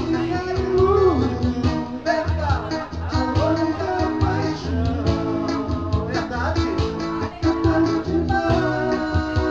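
Live duo music: guitar over a steady bass and drum backing, with a sliding melodic line on top.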